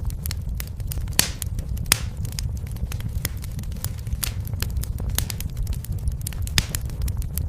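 Fireplace fire crackling: many sharp pops and snaps at irregular intervals over a steady low rumble of the flames, with a louder pop about a second in and another just before two seconds.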